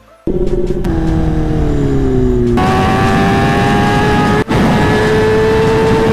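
Kawasaki ZX-10R's inline-four engine running at high revs through its SC-Project titanium full-system exhaust, with a rush of wind. Its pitch falls over the first couple of seconds, changes abruptly about 2.5 s in and then climbs slowly, with a brief break about 4.5 s in.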